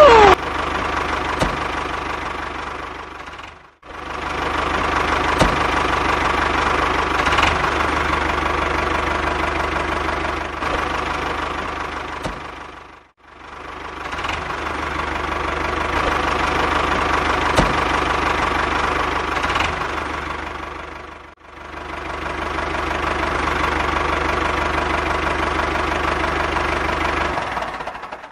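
A small motor running steadily, an engine-like drone with a steady tone. It fades out and back in three times and stops near the end.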